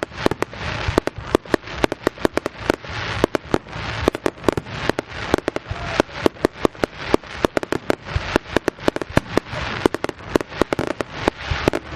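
Fireworks display: a rapid, continuous barrage of bangs from bursting shells, several a second, with a hiss between them.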